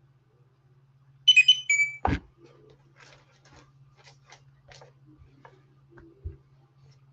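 A short electronic notification chime, a quick run of high beeps about a second in, followed at once by a single knock; after it, faint scattered clicks and rustles over a low steady hum.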